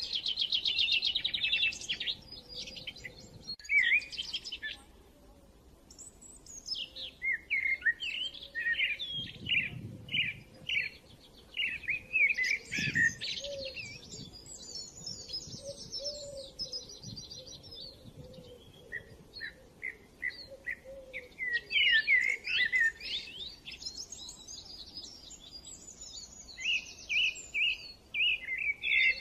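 Small birds chirping and trilling in quick, repeated calls, with a brief lull about five seconds in.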